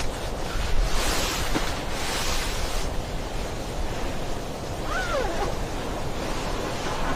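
Wind rushing steadily, gusting louder for about two seconds near the start. A brief faint squeak slides down in pitch about five seconds in.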